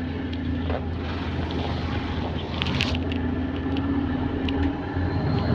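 London bus running along with a steady low engine rumble and a drone whose pitch climbs a little about four seconds in. A few short rattles sound over it, the sharpest about three seconds in.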